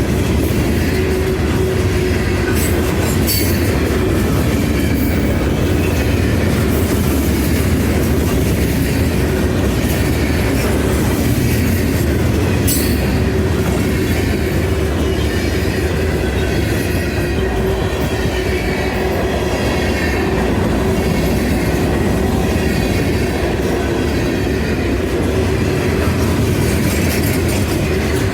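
Freight train rolling past at close range: a steady rumble of wheels on rail, with a faint high wheel squeal and a couple of sharp clanks about three and thirteen seconds in.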